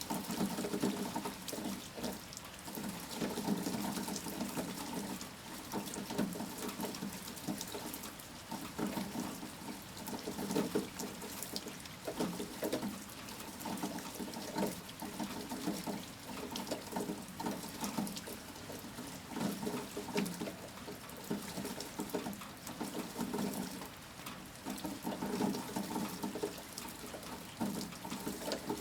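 Heavy rain falling steadily: a dense, uneven patter of splashing drops.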